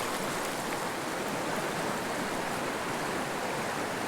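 Mountain stream rushing over rocks, a steady even wash of water.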